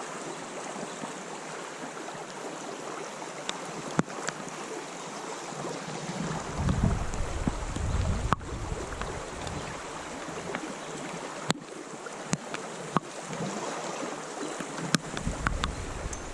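Steady rush of creek water, with wind gusts buffeting the microphone about seven seconds in and again near the end, and a few sharp clicks.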